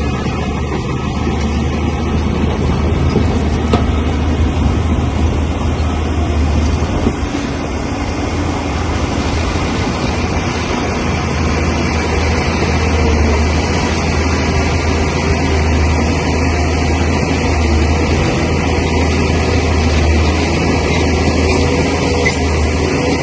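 Crawler bulldozer's diesel engine running under load with a steady low drone, easing briefly partway through.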